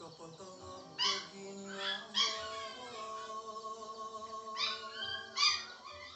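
A pet cat meowing about four times in short calls over background music with long held notes.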